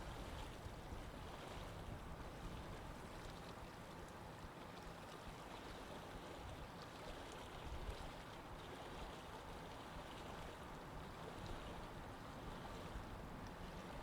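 Water flowing in a canal, a steady soft rush of moving water with faint urban background noise.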